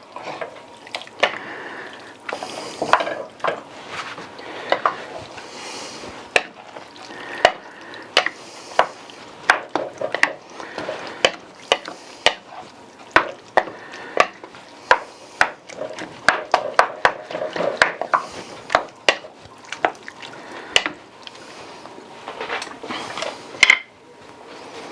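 Spoon stirring a thick pot of chili on the stove, with a wet, sloshing stir and frequent irregular clicks and knocks of the spoon against the pot.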